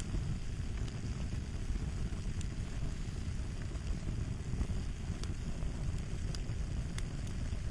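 Fire crackling: a steady low rumble with sparse, irregular sharp pops and snaps.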